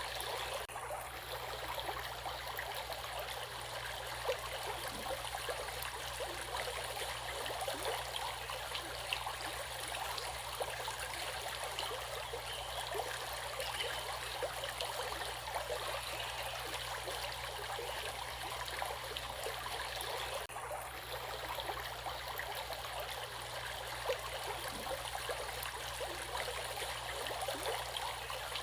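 Steady flowing water of a stream, an even rush with many small splashes and trickles.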